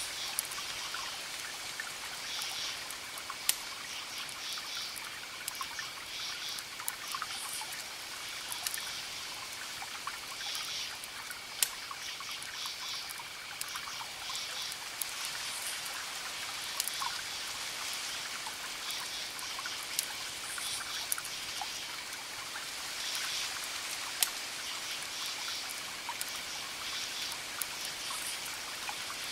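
Fire crackling, with scattered sharp pops, over a steady watery hiss. Repeated short bursts of high chirping calls and a faint steady high tone run through it.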